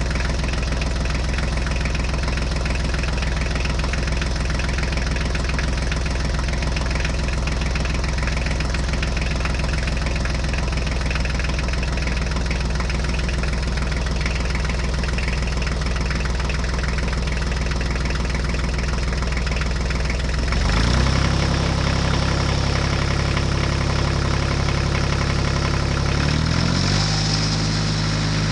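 Old farm tractor engine idling steadily with a rapid firing pulse. About twenty seconds in, its note changes and gets a little louder, and it shifts again near the end.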